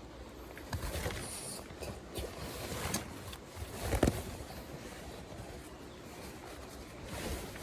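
Rustling and scraping of gear being handled, with several short knocks, the loudest and sharpest about four seconds in.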